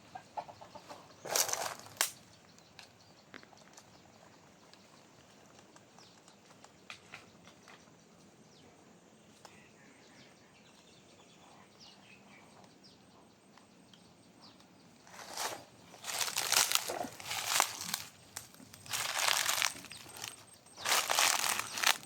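Dry leaves rustling and crunching in short bursts: two brief rustles near the start, then a quiet stretch, then a run of louder bursts about every second or two in the last several seconds.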